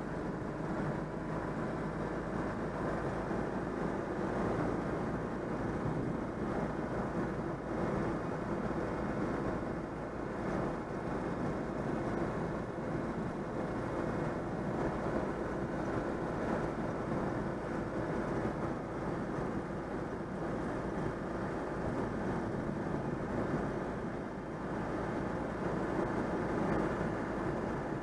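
Citroën 2CV's freshly overhauled air-cooled flat-twin engine running steadily while the car drives, with road and wind noise.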